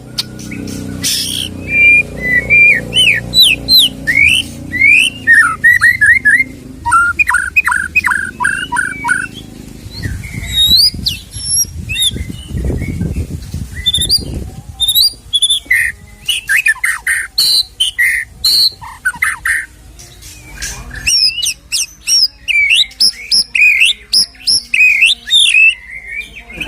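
White-rumped shama (murai batu) singing a long, varied song of rapid whistled phrases, quick sweeping notes and trills, packed with mimicked calls ('isian').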